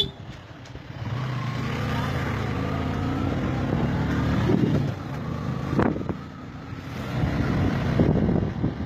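Road-vehicle engine running steadily on a ride, with a brief sharp knock just before six seconds in.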